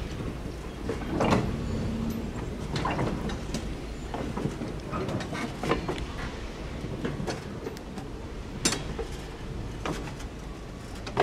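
Slow-moving train: a steady low rumble with scattered clanks and clicks, the loudest a sharp knock near the start and another about three-quarters of the way through.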